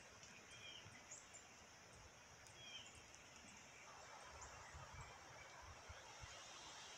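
Near silence under a grey sky: a few faint, distant bird chirps over a soft hiss of outdoor air, with a few low thumps in the second half.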